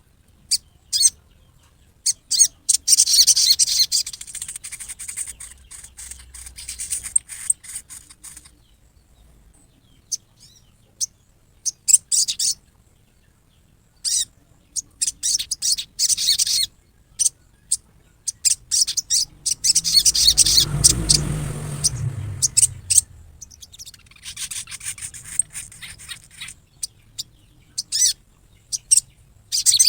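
Sogon bird giving its rough 'riwikan' call, the harsh rattle that provokes other sogons: bursts of rapid, rasping chatter with short pauses between them. A low rumble sits under the calls about two-thirds of the way through.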